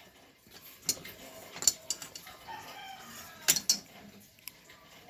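Metal automatic-transmission parts clinking and knocking against each other as they are handled, in a few sharp separate clinks, two of them close together past the middle.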